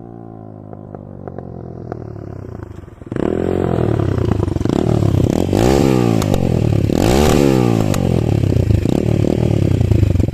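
Scrambler 250 motorcycle engine running with its exhaust removed: a steady, open note at first, then from about three seconds in much louder as it is revved up and down several times. Loud, very loud.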